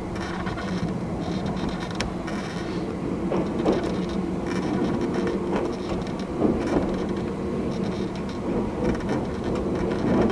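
Fujikyu 8500 series electric train running slowly, heard from inside the driver's cab: a steady running rumble with a low hum and a few short knocks from the wheels over the track, a sharp one about two seconds in.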